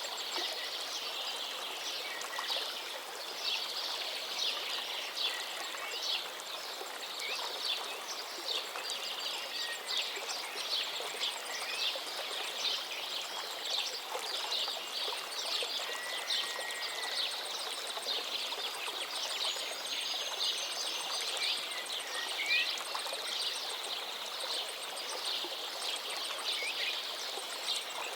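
Forest river flowing and babbling steadily, with a few scattered bird calls over it.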